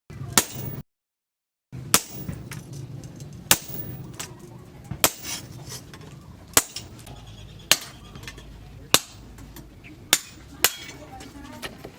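Hammer blows on steel: single sharp, ringing strikes about every second and a half, over a steady low rumble, with a short gap of silence near the start.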